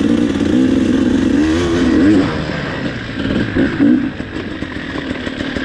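KTM 300 TPI single-cylinder two-stroke dirt bike engine running loud under riding load, its revs rising and falling with the throttle over rough ground.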